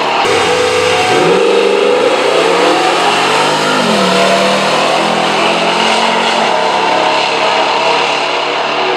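Two street cars accelerating hard side by side down a drag strip, the engines revving up through the gears, with a drop in pitch at a shift about four seconds in, then fading as they pull away.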